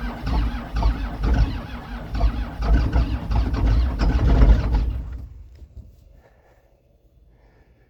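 John Deere 7810 tractor's six-cylinder diesel running loud and rough, just caught on a cold start, its loudness building for about four seconds. Around five seconds in the sound falls away quickly to near silence.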